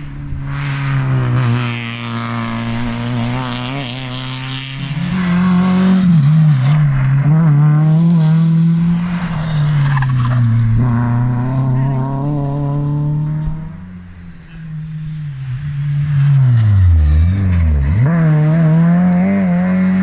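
Rally car engine working hard on a twisty stage, its note rising and falling through the gear changes. Around three-quarters of the way through, the note drops steeply, then climbs again as the car accelerates away.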